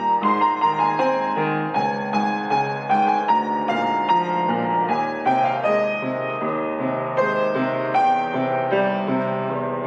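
Solo piano playing a slow melody over a steady flowing accompaniment, note after note struck and ringing.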